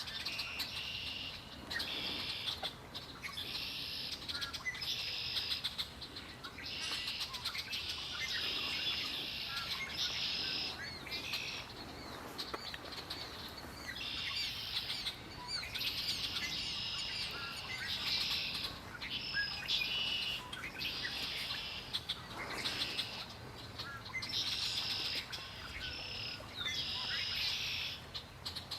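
Songbirds singing: bright, high phrases of song repeat every second or two with short gaps, and fainter chirps fill the spaces between.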